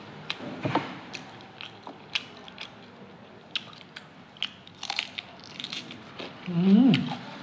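Close-up eating sounds: crisp bites and wet chewing of a fresh green chilli and rice, with a scatter of sharp mouth clicks. Near the end comes a short hummed voice sound that rises and falls in pitch.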